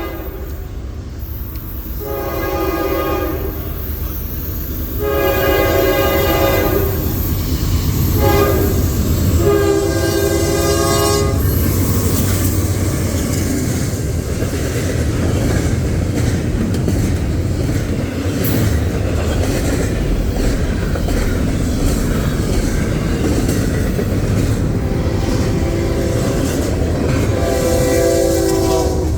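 Norfolk Southern freight train's locomotive air horn blowing long, long, short, long, the standard grade-crossing signal, as the train arrives. The train then passes with a steady loud rumble of wheels and cars, and the horn sounds again near the end.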